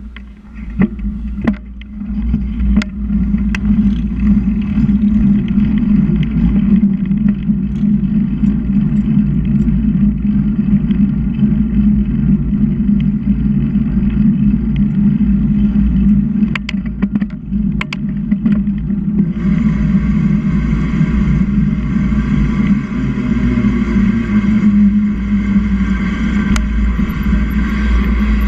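Steady low rumble of wind and road noise on the microphone of a bicycle in motion, with scattered clicks. About two-thirds of the way through, a higher hiss with a whining tone joins in and lasts to the end.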